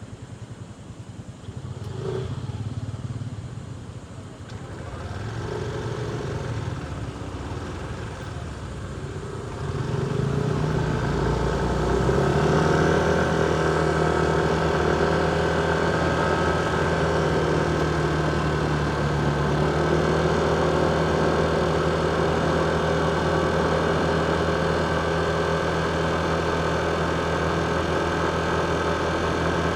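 Motorcycle riding in city traffic, its engine and the traffic around it running. From about ten seconds in, a louder engine hum sets in and holds one steady pitch.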